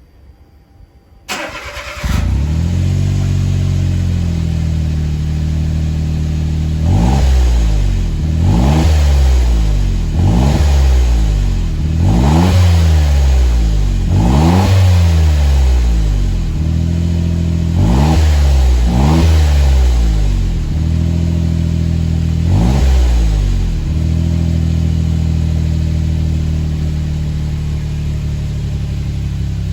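Suzuki Jimny JB23's 660 cc turbocharged three-cylinder engine breathing through an aftermarket AGITO Racing Parts racing muffler: it starts a little over a second in and idles, then is blipped about eight or nine times, each rev rising and falling back, before settling to a steady idle.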